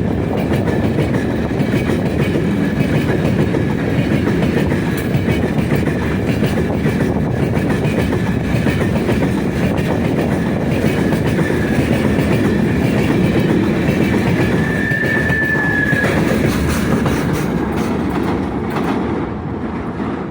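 Freight train wagons rolling past, wheels clattering over the rail joints, with a thin high wheel squeal that is strongest about three-quarters of the way through. The noise starts to fade near the end as the train draws away.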